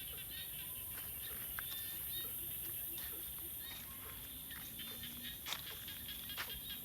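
Outdoor ambience of short, repeated bird chirps and scattered sharp clicks over a steady low rumble and a high hiss.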